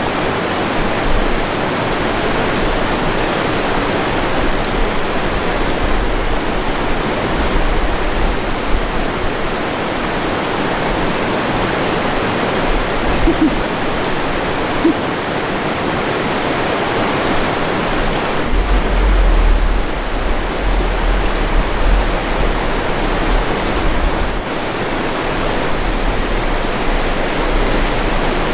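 Mountain stream water rushing steadily, with a thin, steady high tone above it. A low rumble swells in about two-thirds of the way through.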